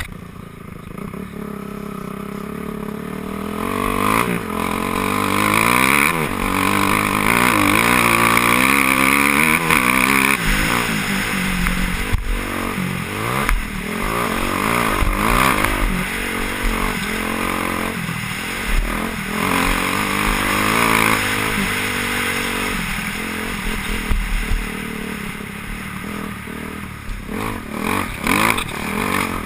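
Several motocross bikes' engines running hard together, each rising and falling in pitch as the riders rev and shift, the sound of the pack building over the first few seconds and then staying loud.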